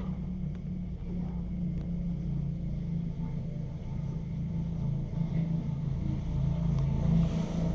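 Electric train's low, steady hum, growing louder toward the end.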